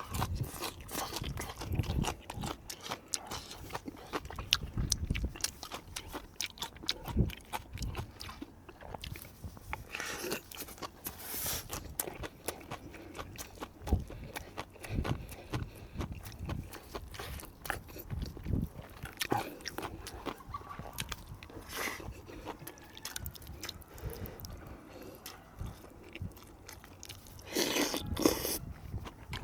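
Close-up eating sounds: a person chewing and crunching food with a steady run of wet mouth clicks, and a few louder brief smacking or slurping noises.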